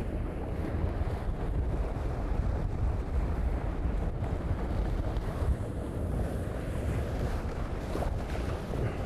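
Wind buffeting the microphone and water rushing past the hulls of a sailing catamaran under way in strong wind: a steady, heavy rumble.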